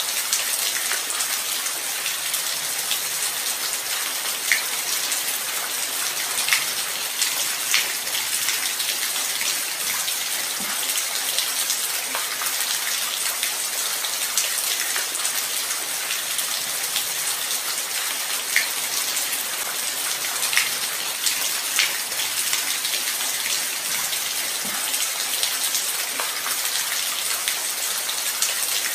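Light rain falling steadily, a constant hiss with scattered individual drops ticking louder here and there.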